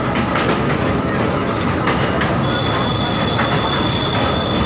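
Local passenger train running over a steel truss bridge, heard from its open doorway: a loud, steady rumble of wheels on rails with repeated clanks. A thin, steady high squeal joins in about halfway through.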